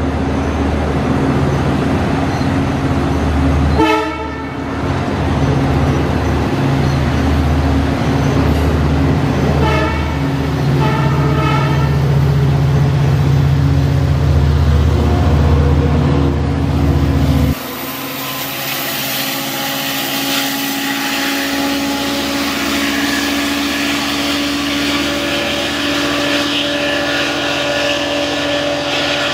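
Long Island Rail Road diesel train running loud and close, its horn sounding briefly about four seconds in and again around ten seconds. About seventeen seconds in the sound changes suddenly to a quieter steady hum with a few held tones.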